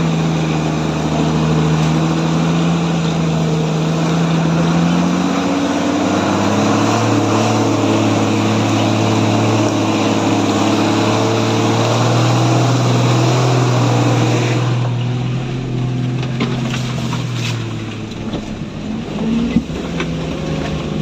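A vehicle engine running hard; its pitch steps down about five seconds in and holds, then it eases off and gets quieter after about fifteen seconds, with a few knocks near the end.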